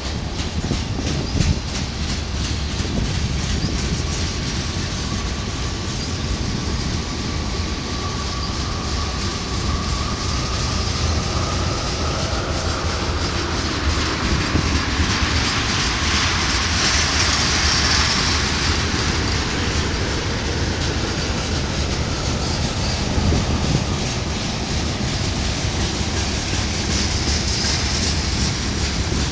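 Norfolk Southern manifest freight train's cars, covered hoppers and tank cars, rolling past close by: a steady rumble with steel wheels clacking over the rail joints. A held wheel squeal runs through the first half, and a higher screech of wheel on rail comes in around the middle and again near the end.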